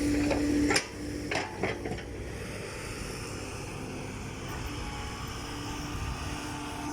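Heavy diesel engine running loud, then dropping sharply about a second in, with a few sharp knocks, and carrying on as a lower steady drone.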